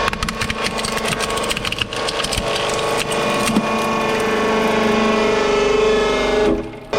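A toy truck cracking and snapping under a crushing load, with many sharp cracks in the first three seconds, over a steady machine hum that rises slightly in pitch and cuts off near the end.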